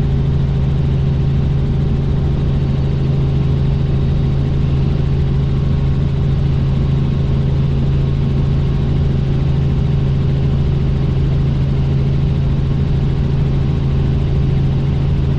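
Helicopter in flight, heard as a loud, steady drone of engine and rotor with a strong low hum that does not change.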